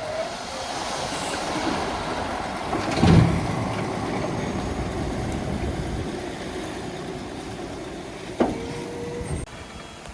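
Shantui DH17C2 crawler bulldozer running under load, its tracks clattering, with a heavy clunk about three seconds in and a sharp knock near the end.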